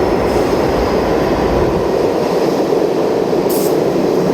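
A ten-car New York City subway train on the Lexington Avenue local track pulling into the station: a loud, steady rumble of wheels on rail. A brief high hiss comes about three and a half seconds in.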